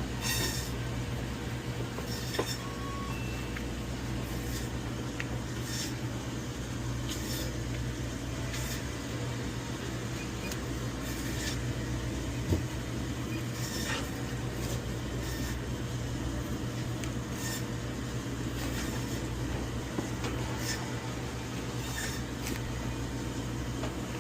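Meat being sliced, a short crisp cutting stroke every second or two, over a steady machine hum.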